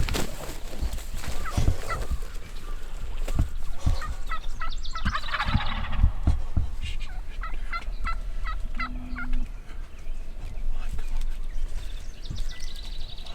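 Wild turkey tom gobbling, a rapid rattling call about four seconds in, then a run of short yelps, and another gobble near the end.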